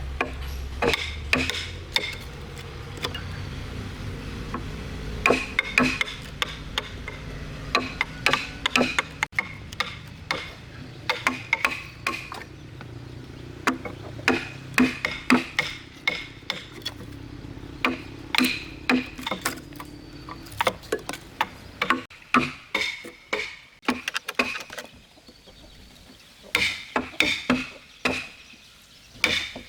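Irregular knocks and taps of tools working timber, coming in quick clusters, over a low steady hum that fades out about two-thirds of the way through.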